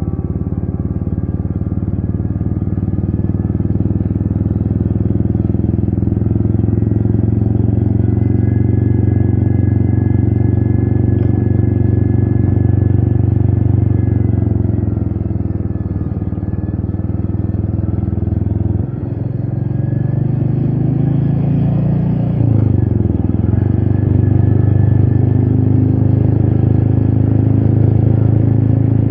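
Royal Enfield Meteor 350's single-cylinder engine running steadily on the move. Its note eases about halfway through, drops suddenly about two-thirds in, then rises again and settles back into a steady pull.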